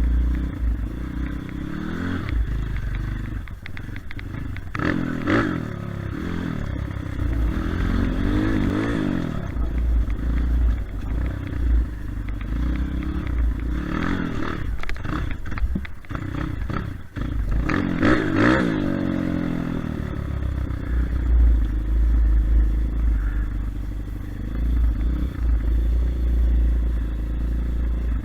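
Kayo TT140 dirt bike's 140 cc four-stroke single-cylinder engine revving up and down repeatedly as it is ridden, with rises in pitch about every few seconds over a heavy low rumble.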